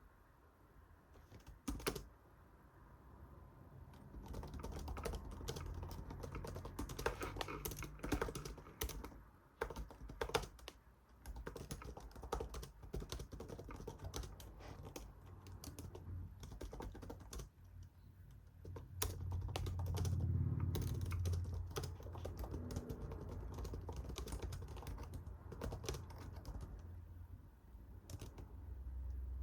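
Typing on a computer keyboard: a run of irregular key clicks, with a low rumble underneath that swells about two-thirds of the way through.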